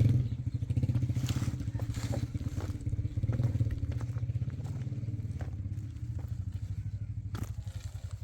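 A small engine running steadily with a fast, even throb, fading gradually, with a few light clicks over it.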